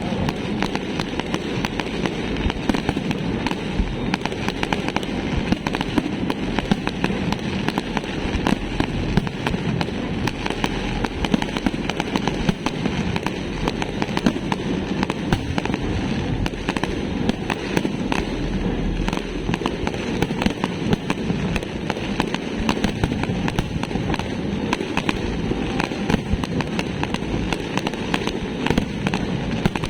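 Fireworks going off in a continuous barrage: dense crackling with many sharp pops and bangs, without a break.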